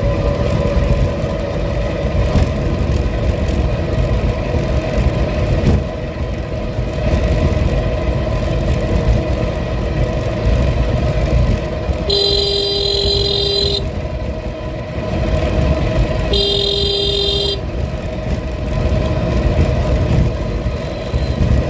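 A motor vehicle running steadily with road rumble. A horn honks twice: a longer blast about twelve seconds in and a shorter one about sixteen seconds in.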